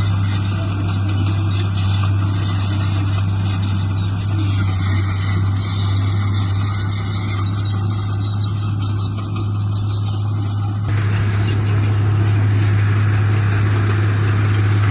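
Heavy earthmoving machine's diesel engine running steadily, a constant low drone under a broad mechanical noise, getting a little louder and brighter about eleven seconds in.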